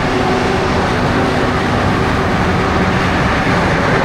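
Grain dryer running, a loud, unbroken mechanical din with a couple of steady low hums under it.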